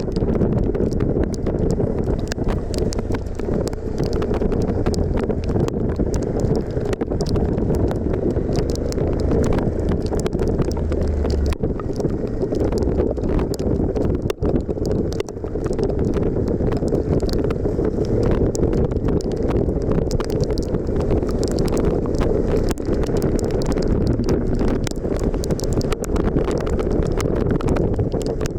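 Motorcycle on the move: the Suzuki V-Strom 1050XT's V-twin engine running steadily under heavy wind noise on the microphone.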